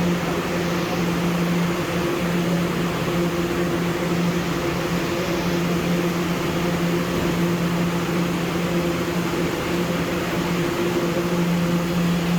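R211 subway car's HVAC running very loud and steady: a low droning hum with a second, higher tone above it, over a constant rush of air.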